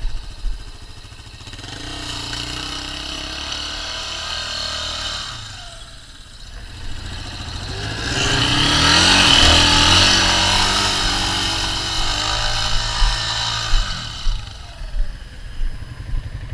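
Dirt bike engine revving hard in two long pushes, the second louder, then dropping away near the end, as the bike struggles in soft sand and gets stuck.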